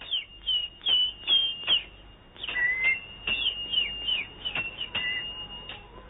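Songbird chirping: a quick series of short, high, falling chirps, about two a second with a brief lull around two seconds in, over a thin steady high note.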